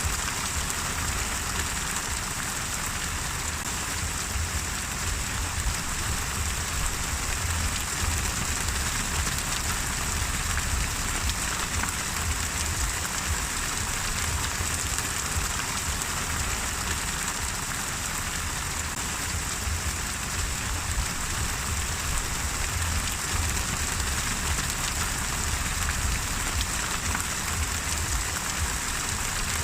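Steady rain falling and pattering on a surface, an even hiss with a low rumble underneath.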